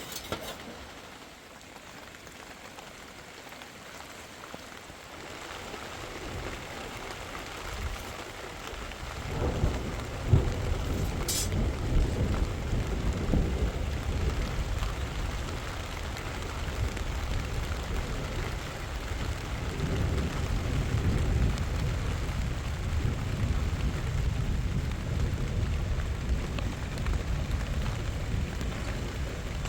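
Steady rain falling, then thunder: a deep rumble builds about nine seconds in, with a sharp crack near ten seconds, and rolls on loudly under the rain.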